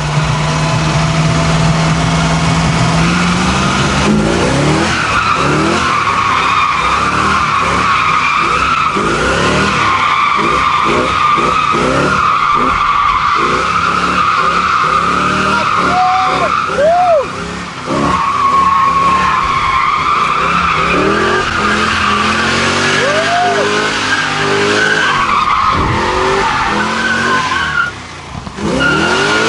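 Chevy 350 small-block V8 in a Toyota Tacoma drift truck revving hard through a drift, its note rising and falling over and over while the tyres squeal steadily. The engine and the squeal briefly drop away twice, about halfway through and near the end.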